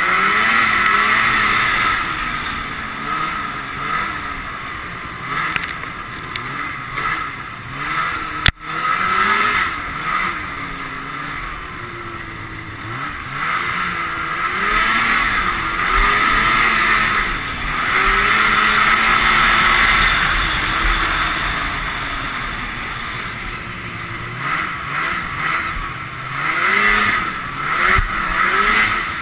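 Ski-Doo Blizzard 5500 snowmobile's fan-cooled Rotax two-stroke twin being ridden hard, its pitch rising and falling again and again as the throttle is worked, over a constant rush of wind and track noise. A single sharp knock comes about eight and a half seconds in.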